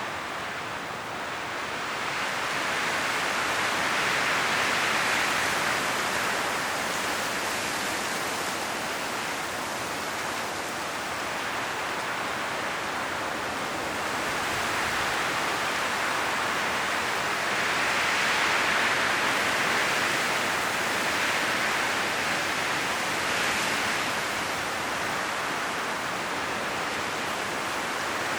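High wind blowing through a forest, the leaves rustling in a steady hiss that swells and eases in slow gusts every several seconds.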